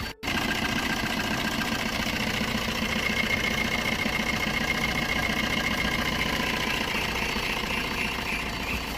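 Maruti Swift Dzire VDi's four-cylinder turbodiesel idling steadily, with a momentary break just after the start.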